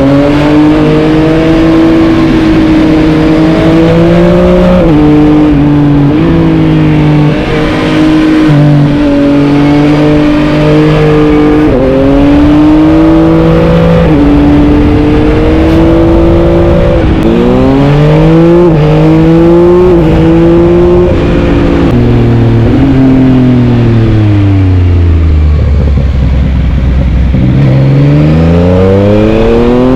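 Yamaha MT-09's 890 cc three-cylinder engine under way, its pitch holding steady with sudden steps at gear changes and rising in quick runs through the gears around the middle. About three-quarters in it falls to low revs for a few seconds, then revs up again near the end.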